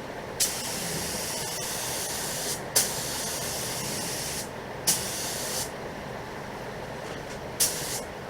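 Air spray gun applying paint: a steady hiss of air and paint, with a sharp burst each time the trigger is pulled, about four times.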